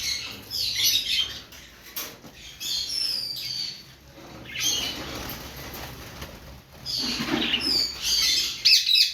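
Pet birds flapping their wings in short bursts, with quick high chirps that slide downward in between.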